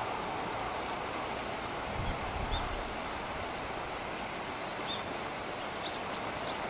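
A steady rushing noise, with a few low thumps about two seconds in and faint short high chirps later on.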